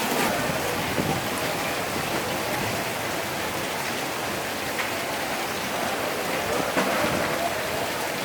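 Heavy rain pouring down and hitting hard surfaces in a steady downpour, with scattered sharper ticks of drops, or possibly hail, striking.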